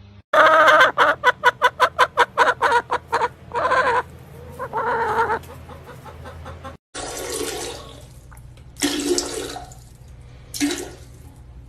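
An animal's calls: a fast run of short pitched calls, about six a second, then two longer calls. After a sudden cut, a few short noisy bursts.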